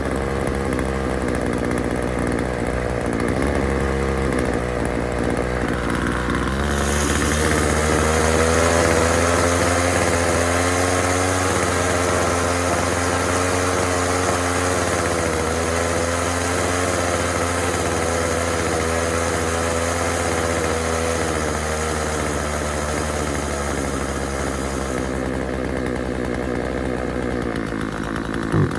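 Husqvarna 136 chainsaw's small two-stroke engine running steadily. About six or seven seconds in it picks up to a higher, busier speed that wavers for a few seconds, holds for nearly twenty seconds, then drops back to a lower speed near the end. The saw is being run while its low-speed carburetor setting is adjusted.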